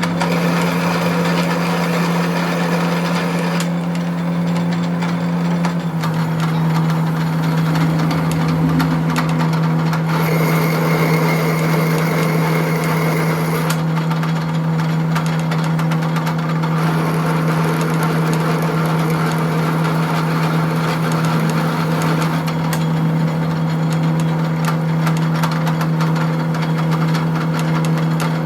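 A machine running steadily with a constant low hum, its pitch dropping a little about six seconds in, and a rough, changing noise over it.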